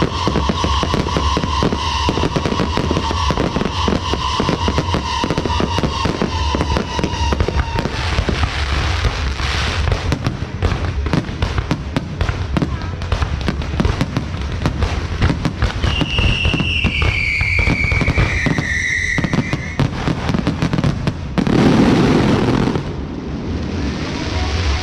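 Firecrackers and fireworks going off in a dense, continuous crackle of rapid bangs. High tones glide downward partway through, and there is a louder surge of noise near the end.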